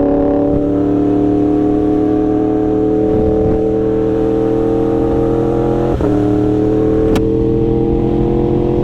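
Yamaha R1's inline-four engine running steadily while riding, its pitch slowly climbing, with a brief dip in pitch about six seconds in and a short sharp click a second later.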